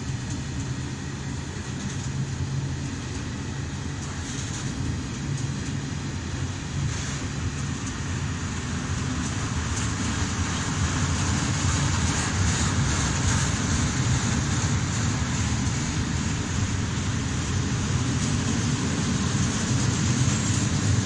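A long freight train of open gondola wagons loaded with timber rolling past: steel wheels running steadily over the rails. The rolling noise grows somewhat louder about halfway through.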